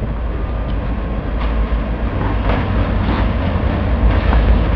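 Distant diesel locomotive approaching on the tracks, a low steady rumble mixed with wind buffeting the microphone.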